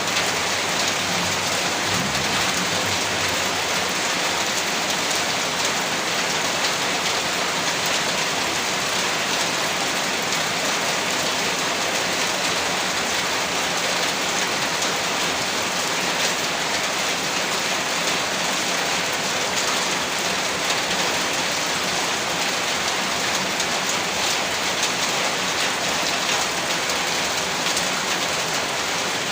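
Heavy rain falling steadily, a dense even hiss of drops on surfaces with no pauses.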